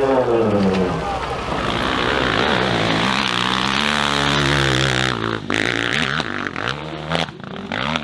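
A hill-climb dirt bike's engine revving hard, its pitch falling, then climbing and wavering, with a few sharp cracks in the second half.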